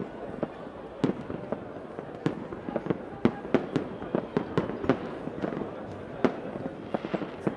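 Fireworks going off: many sharp bangs and pops at an irregular, rapid pace over a steady noisy background.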